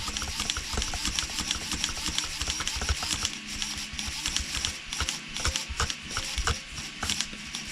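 Radio-controlled truck's 15 kg waterproof Savox steering servo whirring in short bursts as the steering is worked back and forth, with many small clicks and knocks throughout.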